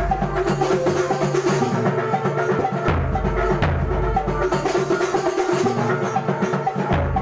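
Kuntulan ensemble playing a fast, dense percussion pattern of interlocking hand-drum strokes, with deep bass drum swells every few seconds and a pitched tone held under the drumming.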